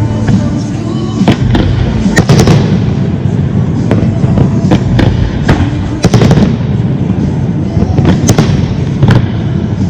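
Aerial fireworks bursting: a rapid string of bangs and crackles over a continuous low rumble, with clusters of louder reports about two seconds in, around five to six seconds in, and near the end.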